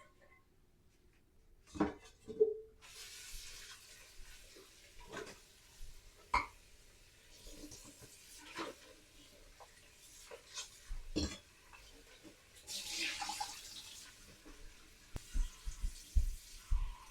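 Kitchen tap running into the sink, starting about three seconds in, with scattered knocks and clinks of dishes and utensils being handled.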